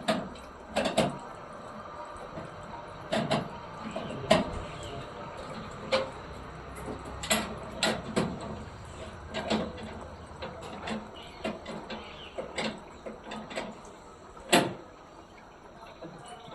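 Irregular knocks and clatter, a dozen or so sharp strikes at uneven intervals, over a faint steady background hum.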